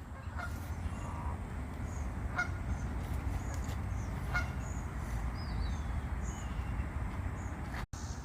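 Three short honking bird calls about two seconds apart, over a steady low rumble, with faint high chirps of small birds.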